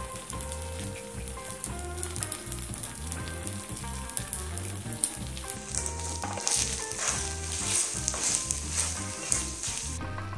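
Fried rice sizzling in a hot pan while being stirred, with scattered scraping clicks. The sizzle grows louder about five and a half seconds in. Background music with a steady low beat runs underneath.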